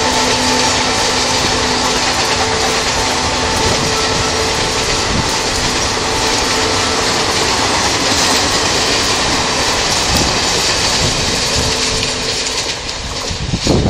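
Indian Railways express passenger coaches passing at about 95 km/h, a steady loud rush of wheel and rail noise. It eases slightly near the end as the last coaches go by.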